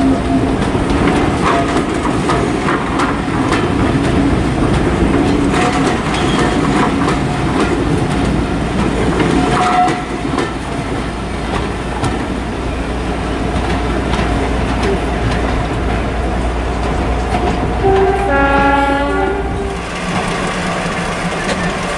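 Passenger coaches rolling past, wheels clicking over rail joints, then a steadier low rumble. Near the end a train horn sounds for a second or two.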